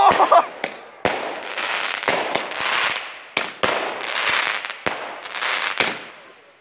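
Nico Metal Shots compound firework battery firing: about ten sharp reports at uneven intervals, each followed by a spell of crackle from the bursting glitter stars, dying down near the end.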